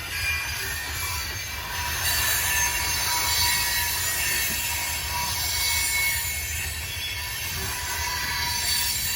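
Freight train cars rolling into a rail yard, their wheels squealing against the rails over a steady low rumble.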